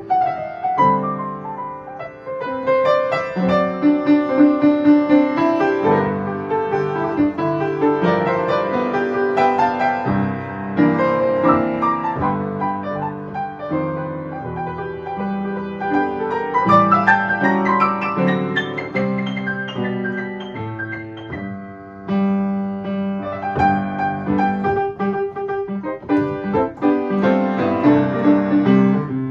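Solo piano music: a melody played over chords, note after note with no other instruments or voices.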